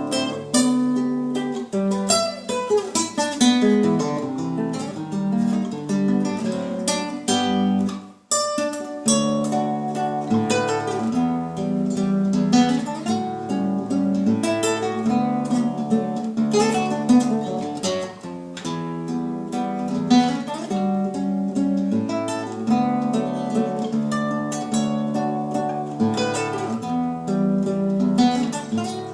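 Acoustic guitar music, plucked notes and strummed chords played continuously, with a brief break about eight seconds in.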